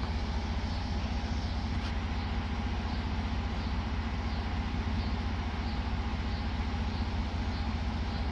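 2011 Ford Edge SEL's 3.7 Duratec V6, with modified intake and exhaust, idling steadily.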